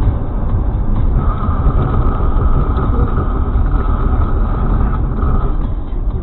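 Car driving, heard from inside on a dashcam: steady low road and engine rumble. A single steady high tone comes in about a second in and stops near the end.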